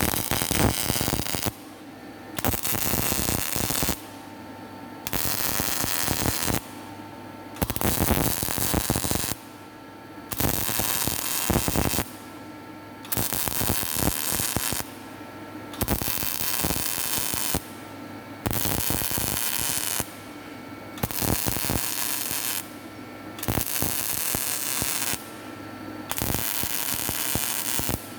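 Electric arc welding done in short runs: about eleven bursts of arc crackle, each a second and a half to two seconds long, with brief pauses between them, over a steady low hum.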